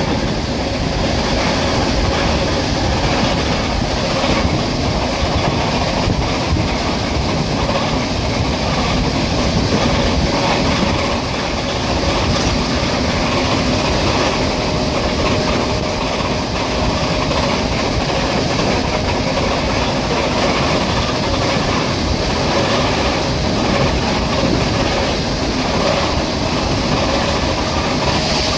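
ER9T electric multiple unit running along the track: steady running noise with wheels clacking over rail joints and a faint steady tone.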